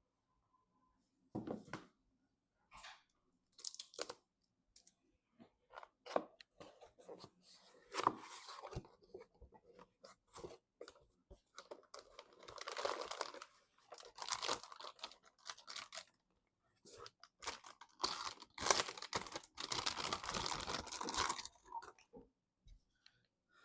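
Plastic crinkling and tearing with scattered small clicks and knocks, in irregular stretches: the longest run about halfway through and another near the end.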